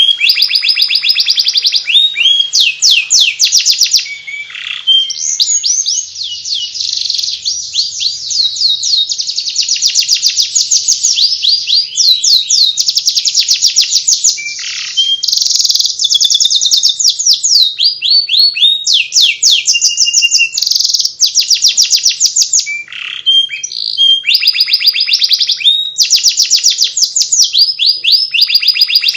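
Domestic canary singing a continuous, rapid twittering song ('ngeriwik'): long trains of fast, repeated downward-sweeping high notes with only brief pauses.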